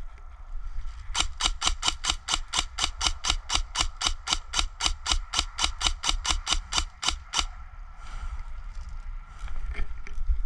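Airsoft gun clicking rapidly and evenly, about five sharp clicks a second for some six seconds, starting about a second in.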